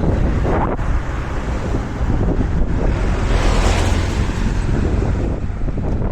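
Strong wind buffeting a small action camera's microphone: a loud, low rumbling noise that swells in a gust a few seconds in.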